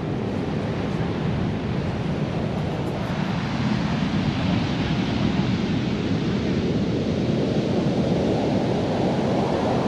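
Ocean surf breaking on the shore, a steady rushing noise that swells fuller from about three seconds in.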